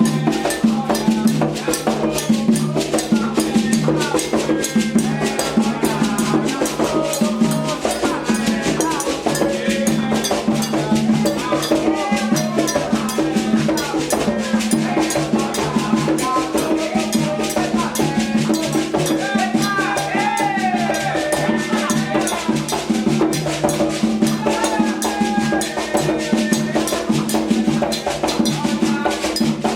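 Candomblé xirê music: atabaque hand drums playing a fast, unbroken rhythm with other percussion, and voices singing over it.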